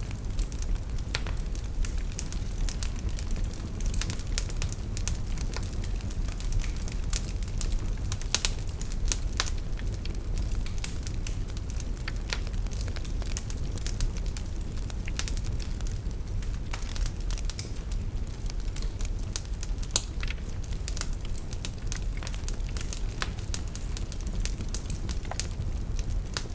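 Fire burning in a fireplace: irregular crackles and pops over a steady low rumble of flame.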